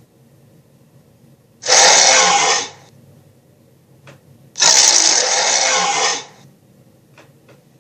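Two harsh, raspy roars from cartoon creature sound effects: one about a second long near two seconds in, then a longer one of about a second and a half starting just past four and a half seconds.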